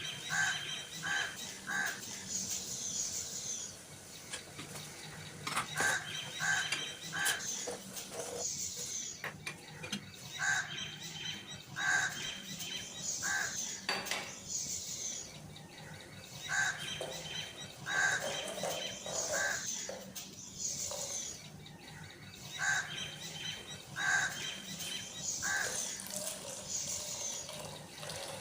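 Birds chirping, in short high phrases that recur in the same pattern about every six seconds, over a faint steady low hum.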